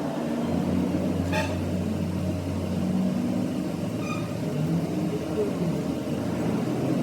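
Bulldozer's diesel engine running steadily, a low, even hum.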